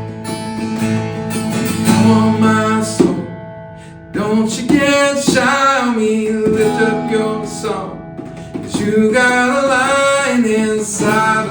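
Worship song on strummed acoustic guitar. The guitar plays alone at first, and a voice comes in singing about four seconds in.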